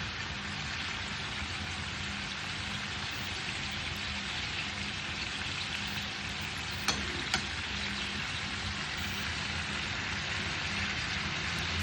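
Food sizzling steadily as it fries in hot oil in a pan, with two short clicks about seven seconds in.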